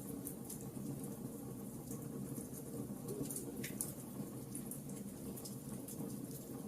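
Wood fire crackling: a steady low rush of burning with frequent small, irregular snaps and pops.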